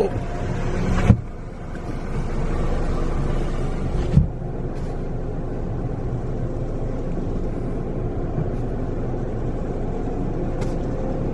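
Car engine running as the car creeps into an automatic car wash bay, heard from inside the cabin as a steady low rumble. Two sharp knocks come through, about a second in and about four seconds in.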